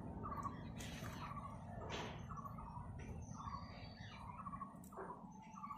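A bird calling in the background, repeating a short trilled note about once a second, with a couple of fainter chirps in between.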